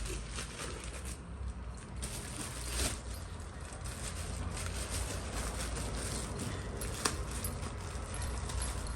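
Packaging being handled: rustling and crinkling with scattered light clicks, and one sharper click near the end.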